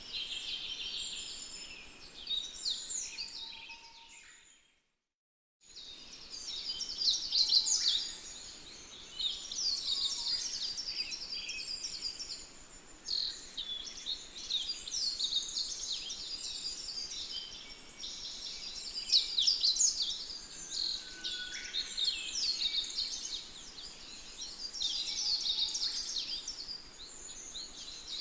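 A dense chorus of many small birds chirping and twittering at once, with overlapping quick high chirps. About four seconds in it fades to silence for about a second and then fades back in.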